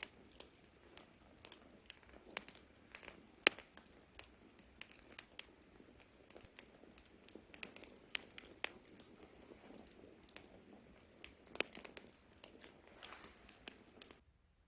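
Campfire burning, the wood crackling with frequent irregular sharp pops over a soft steady hiss. Near the end the sound cuts out abruptly for about a second.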